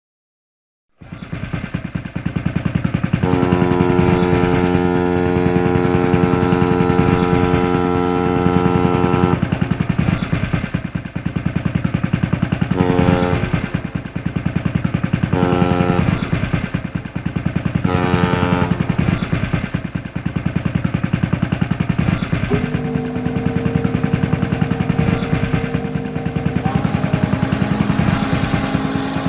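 Ship's engine running with a rapid, steady throb, starting about a second in. Over it, a steady pitched tone sounds for about six seconds, then three short tones a few seconds apart, then a long lower tone that changes pitch near the end.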